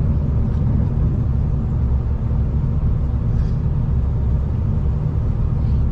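V/Line diesel passenger train running along the line, heard from inside the carriage: a steady low rumble from the running gear and engine.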